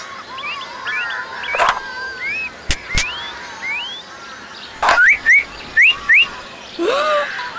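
Birds chirping in quick, short rising calls, loudest about five to six seconds in, broken by a few sharp clicks.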